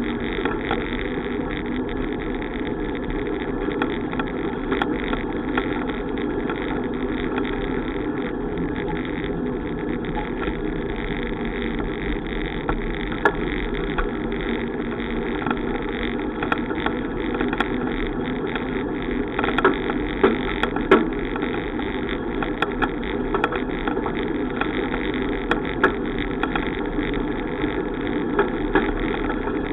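Steady rumble of riding a bicycle, the road and wind noise of the ride, with scattered sharp clicks and rattles, more of them in the second half.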